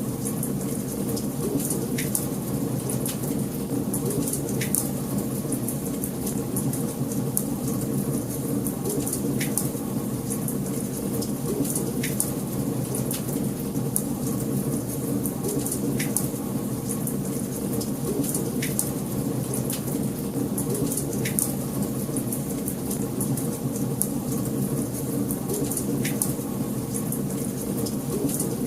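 Wood fire burning in a fireplace: a steady low rush of flames with many small crackles and a sharp pop every few seconds.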